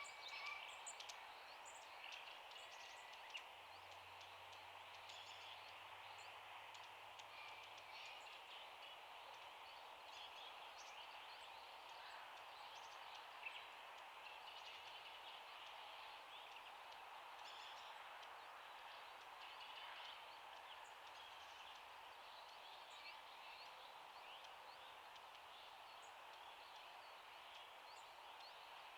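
Faint outdoor ambience, a steady soft hiss, with scattered short bird chirps, a little livelier in the first few seconds.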